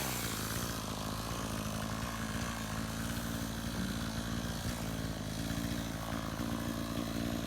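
Chainsaw engine idling steadily at low revs.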